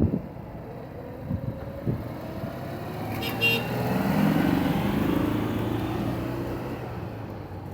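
A car drives past, its engine sound swelling to a peak in the middle and fading away. A brief high-pitched toot sounds about three seconds in.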